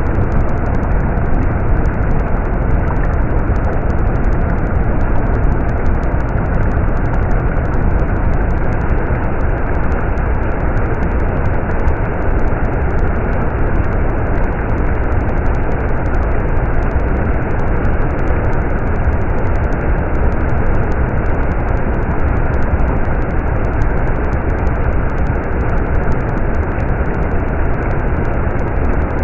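A stream running: a steady rushing of water, heavy in the low rumble.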